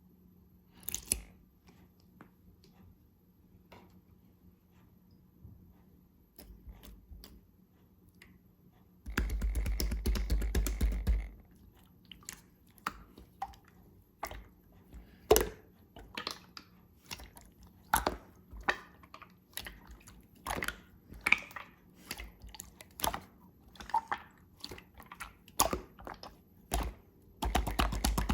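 Clear slime being squished and pressed by hand, making wet clicks and pops. About a third of the way in and again at the end it crackles densely for a couple of seconds.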